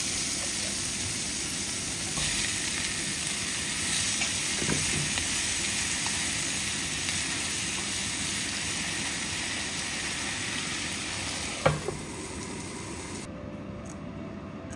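Food sizzling in a frying pan: corn kernels frying in oil, then bok choy and mushrooms being stirred with chopsticks, with a steady hiss throughout. A single sharp knock against the pan comes about three quarters through, and the sizzle drops off abruptly near the end.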